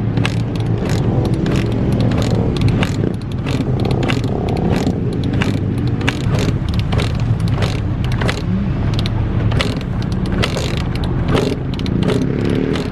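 A motor vehicle engine running steadily, with many sharp clicks and crackles over it.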